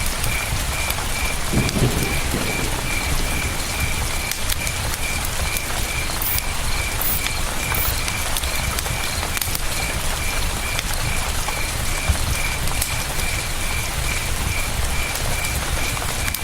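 Campfire crackling with many small sharp pops over the steady rush of river water, while a cricket chirps in an even rapid pulse. A brief low sound comes about two seconds in.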